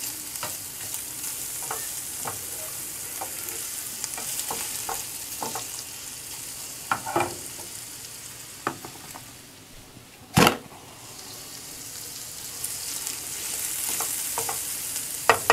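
Chopped sausage and onion sizzling in a nonstick frying pan on low heat, with a nylon slotted spatula stirring and scraping against the pan in scattered small clicks. A single sharp knock about ten seconds in is the loudest sound.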